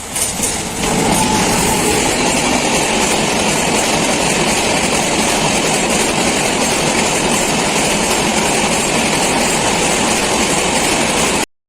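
Indian Railways express train running at speed on the track, a loud steady rush of wheels on rails that comes in about a second in and cuts off suddenly near the end.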